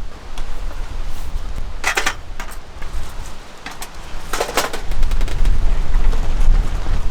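Strong wind buffeting the microphone as a low, gusting rumble that grows heavier near the end, with two short bursts of clattering knocks early and midway.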